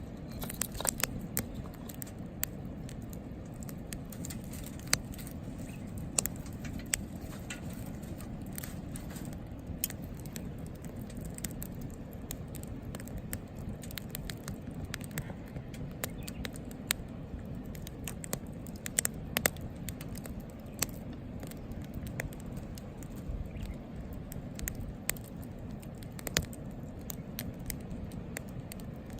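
Wood fire crackling in a Picogrill fire pit: frequent sharp pops and snaps at irregular intervals over a steady low rumble.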